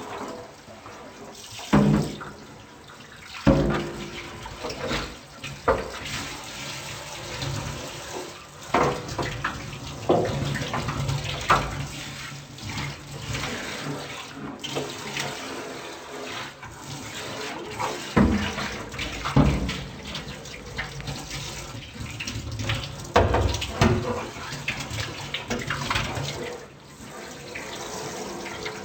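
Tap water running into a sink while things are washed, with repeated knocks and clatters of items being handled and set down in the sink.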